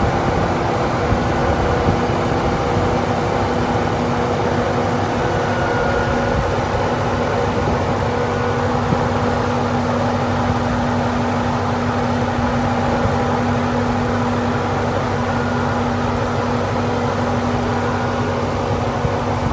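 A car engine running steadily, with a constant hum.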